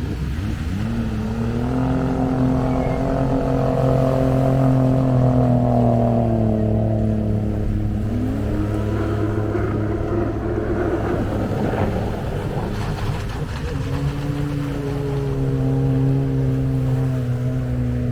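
Jet ski engines running at speed on the water, the engine note climbing about a second in and holding steady, dipping and climbing again around the middle, then holding steady once more near the end.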